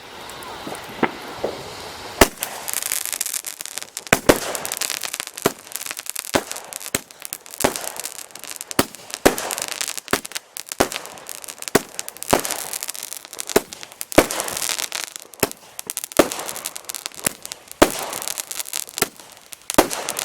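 A consumer multi-shot fireworks cake firing: a hiss builds, then a long run of sharp bangs, about one or two a second, each with crackling.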